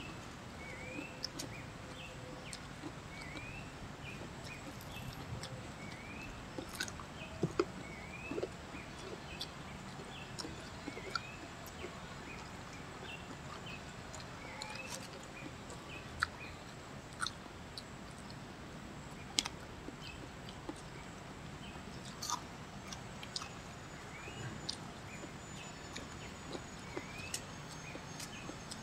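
Quiet chewing and mouth smacking of people eating fried cassava fritters and sautéed greens by hand, with sharp clicks now and then. Behind it a bird repeats a short rising chirp about once a second.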